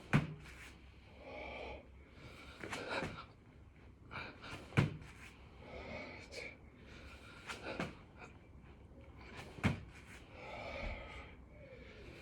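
A man breathing hard through six-count burpees, with loud breaths every second or two. A sharp thump comes about every five seconds as he hits the floor with each rep.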